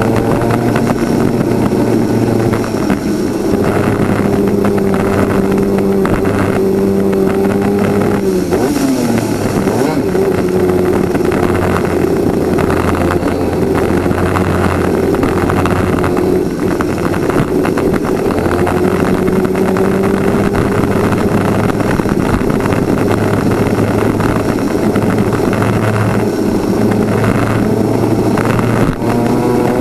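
Twin-cylinder 250cc superkart engine at racing speed, recorded on board. The engine note drops sharply about eight seconds in, then climbs steadily again as the kart accelerates.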